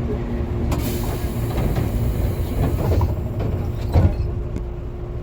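Tobu Tojo Line electric train running on the rails: a steady rumble of wheels and track, with a hiss in the first half and a single knock about four seconds in.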